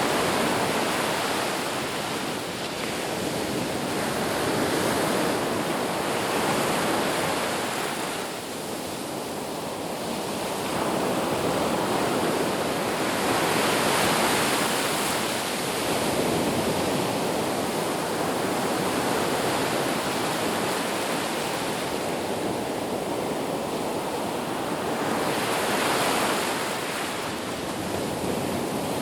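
Ocean surf on a beach: a continuous wash of breaking waves, swelling and easing every few seconds.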